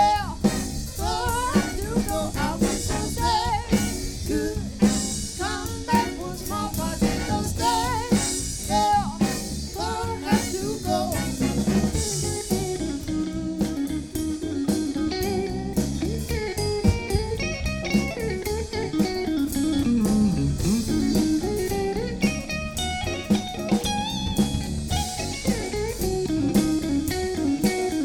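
Live band playing a bluesy song on drum kit, bass and electric guitar. The cymbals ease back about halfway through.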